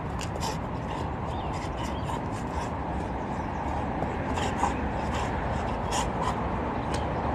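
Steady outdoor background noise with scattered short, high chirps throughout.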